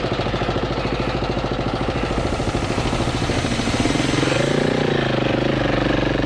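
Adventure motorcycle engine running at a low, steady pulse, then revving up about halfway through, its pitch rising and wavering as the bike pulls away.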